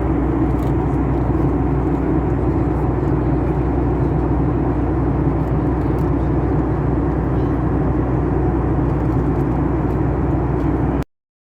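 Steady low drone of a vehicle's interior while it is moving, the noise sitting mostly in the low range with a constant hum underneath; it cuts off suddenly near the end.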